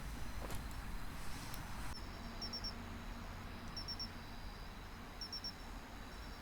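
Crickets chirping in short groups of two or three notes, repeating about every second and a half over a faint steady high trill and a low background rumble. A single click sounds about half a second in.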